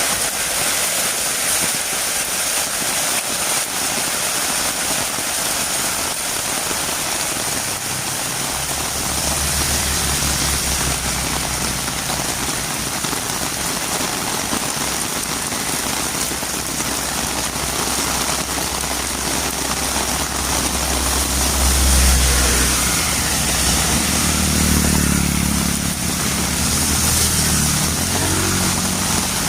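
Heavy rain falling steadily. About eight seconds in, a motor vehicle's engine hum joins it, grows loudest a little past the middle, and rises in pitch near the end.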